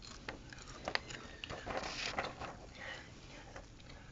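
Sheet of paper being handled and folded: crisp rustling and small crackles, busiest about two seconds in.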